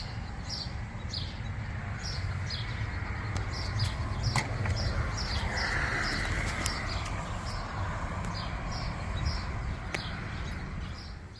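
A small bird chirping over and over, about two to three short chirps a second, over a steady low outdoor rumble, with a brief hissing swell near the middle.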